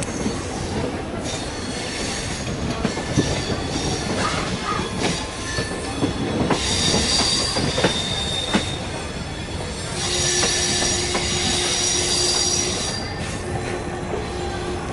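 DEMU (diesel-electric multiple unit) train running on the line, heard from on board: a steady rumble of wheels on rail with scattered clicks. Twice, from a bit past the middle, the wheels let out a high-pitched squeal lasting a couple of seconds, typical of flanges grinding through a curve.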